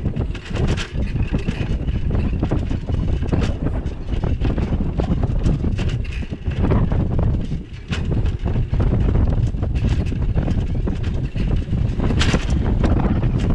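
Wind buffeting a bicycle-mounted action camera's microphone during a ride, a steady low rumble with many small clicks and knocks from the bike jolting over the street.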